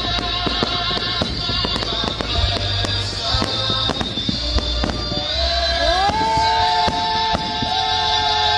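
Fireworks going off in quick succession, many sharp bangs and crackles, over music. About six seconds in the bangs thin out and a held note slides up and stays.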